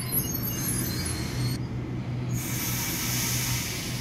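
Double-deck electric passenger train running past on the rails: a steady rumble of wheels on track with a low, even hum.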